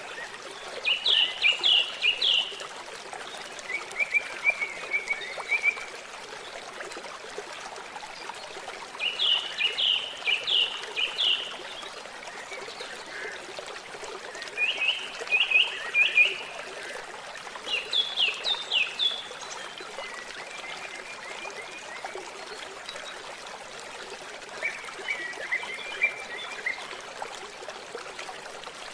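Water trickling and flowing steadily. A small animal's high, quick trilled calls come in short phrases about seven times, every few seconds.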